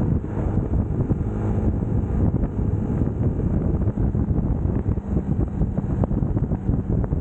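UM Scrambler X motorcycle engine running steadily while riding, mixed with wind rushing over the camera's microphone.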